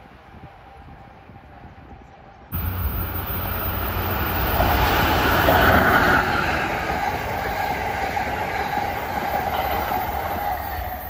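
Amtrak train led by an ACS-64 electric locomotive passing close at speed: a steady rush of wheels on rail that sets in suddenly about two and a half seconds in after a quieter stretch, loudest as the locomotive goes by and easing a little as the coaches follow.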